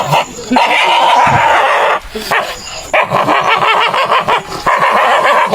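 A dog vocalizing in long, harsh stretches of a second or two each, with short breaks between them.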